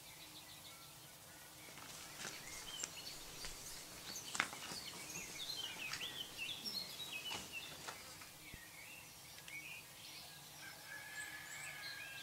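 Birds chirping and calling, a busy mix of short rising and falling calls that starts about two seconds in. Several sharp clicks cut through, the loudest about four seconds in, and a thin steady whistle-like tone is held near the end.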